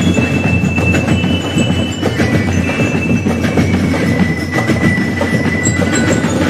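Music of dense, fast drumming with bell-like metallic notes ringing over it.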